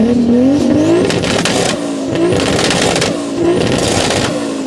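Car engine accelerating hard through the gears, its note climbing in pitch, then stepping back and climbing again about three times. A sharp hissing burst comes with each gear change.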